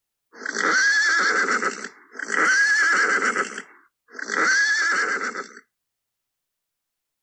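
A horse whinnying three times, each call about a second and a half long with a quavering pitch.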